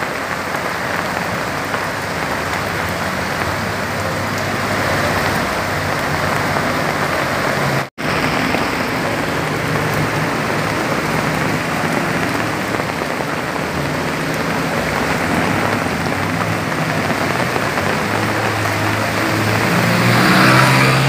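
Heavy rain pouring steadily onto a flooded street and the awnings and shutters overhead. Near the end a motorbike rides through the floodwater, its engine and splash swelling over the rain.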